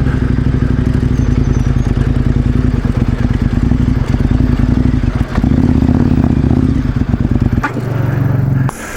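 KTM 1090 Adventure R's V-twin engine running under way, with clatter from the bike on a rough dirt road. Near the end it drops to a steady idle.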